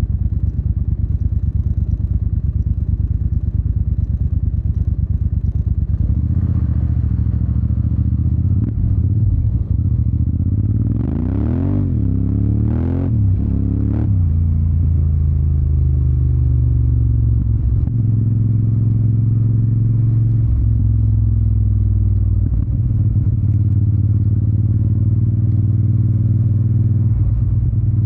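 Yamaha TDM 900's parallel-twin engine through an Akrapovic exhaust, running steadily under way. About halfway through the revs rise sharply three times in quick succession, each pull cut off as it goes up through the gears, then it settles back to a steady note.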